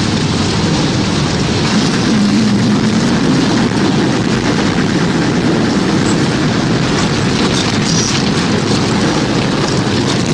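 Tornado sound effect: a steady, loud, deep rush of wind with no breaks.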